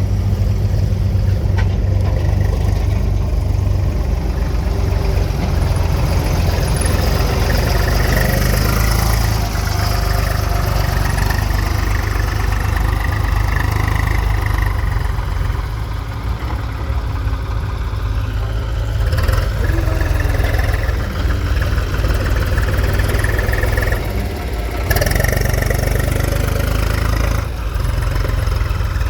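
Diesel engines running steadily at a loading site: a Swaraj 735 XM tractor idling while a JCB backhoe loader works, the engine note shifting now and then and dipping briefly twice near the end.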